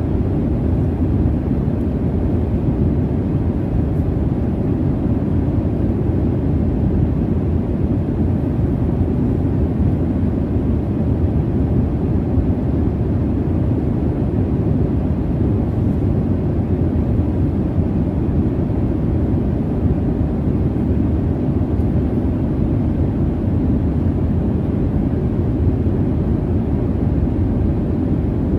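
Steady jet airliner cabin noise: a constant low rush of engine and airflow noise, even and unchanging, with most of its weight in the low end.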